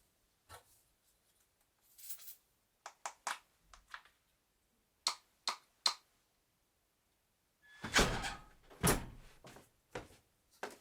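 Wooden bed parts being handled during assembly: scattered light taps and clicks, three sharp clicks in quick succession about five seconds in, then two heavier wooden knocks around eight and nine seconds in.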